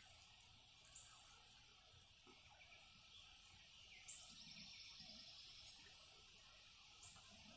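Near silence: faint outdoor ambience with a steady high hiss and a few faint bird chirps, including a short trill about four seconds in.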